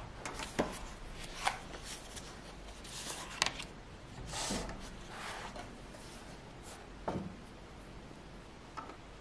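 Light handling sounds: a few soft knocks and rustles, spaced irregularly, over a faint room background.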